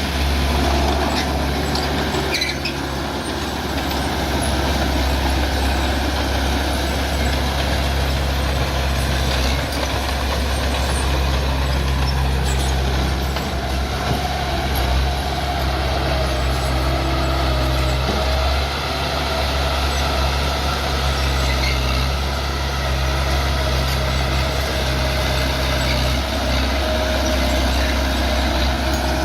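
Bulldozer's diesel engine running steadily with a deep drone, and a wavering high squeal over it, like steel tracks or linkage working.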